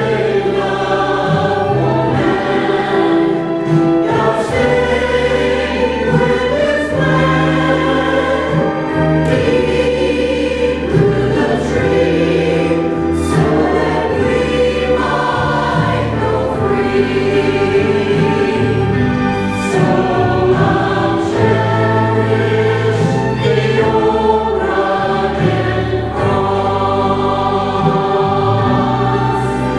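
Adult church choir singing in harmony over steady low sustained notes.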